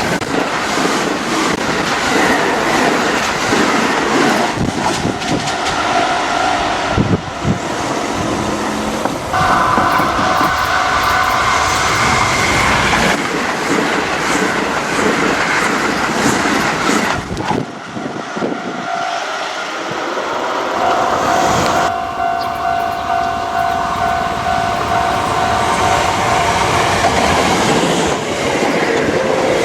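Kintetsu Osaka Line train passing close over the level crossing, its wheels clattering over the rail joints. Steady ringing tones start and stop several times over the noise of the train.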